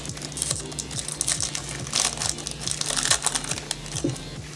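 Foil Yu-Gi-Oh booster pack wrapper crinkling and rustling in irregular crackles as the pack is torn open and the cards are pulled out.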